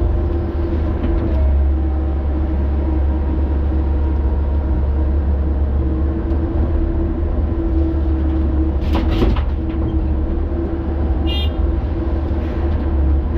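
Heavy diesel engine of an excavator running steadily with a deep rumble. A brief harsh clatter comes about nine seconds in, and a short high-pitched tone sounds a couple of seconds later.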